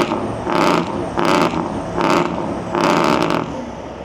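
Semi truck diesel engine being revved in short, repeated blips over its idle, the exhaust barking with each blip. About six blips come roughly a second apart, the last one longer, before it settles back to idle near the end.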